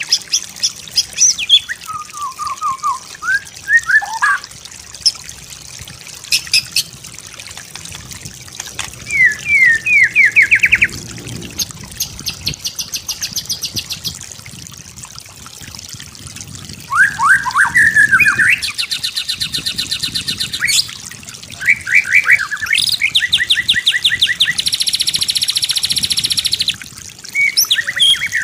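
White-rumped shama singing a varied song: clear whistled phrases, quick series of sliding notes, and long buzzy, rattling strings of rapid notes in the second half.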